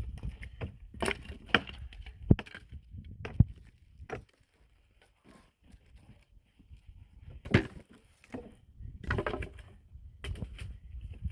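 Dry wood cracking and snapping as branches are broken for firewood: a run of sharp cracks, a short pause, then one loud crack and a cluster of crackling.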